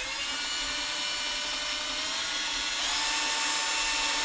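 Electric drill-type power tool running steadily, its speed and pitch stepping up a little about three seconds in.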